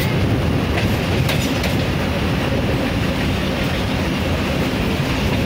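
Passenger train running along the track, heard from a coach window: a steady rumble of wheels on the rails with a few faint clicks over the rail joints.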